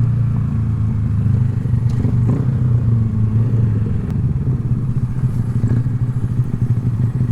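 Honda Grom's small single-cylinder four-stroke engine running at a steady speed under way, with a light clatter.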